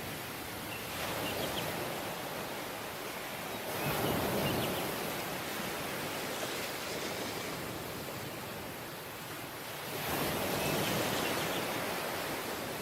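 Surf washing onto a beach: a steady hiss of sea with waves breaking and swelling louder near 4 seconds and again near 10 seconds.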